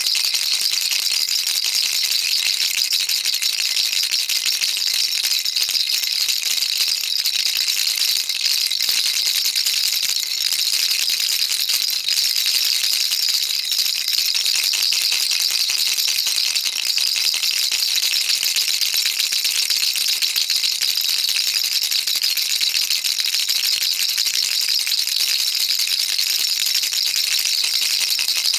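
Baby rattle shaken without a break: a fast, dense, bright rattling that keeps an even loudness throughout.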